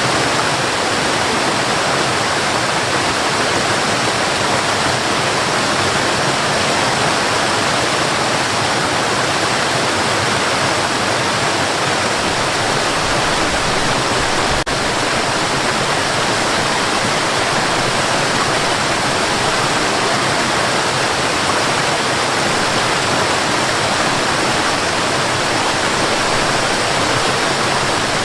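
Waterfall: a steady rush of falling water, with one brief click about halfway through.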